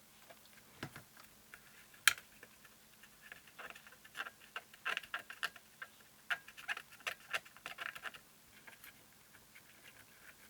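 Cotton swab wetted with isopropyl alcohol being scrubbed over a circuit board: a run of faint, quick scratchy ticks lasting about four seconds, after a single sharp click about two seconds in.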